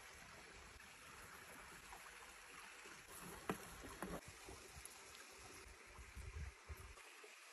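Faint, steady outdoor hiss with two soft clicks about three and a half and four seconds in, and a brief low rumble near the end.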